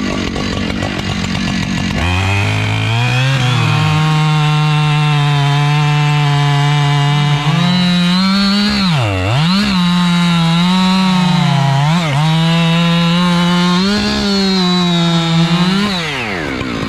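Two-stroke chainsaw at full throttle, its high engine note holding steady and dipping sharply a couple of times as it bogs down under load in the cut, then winding down near the end.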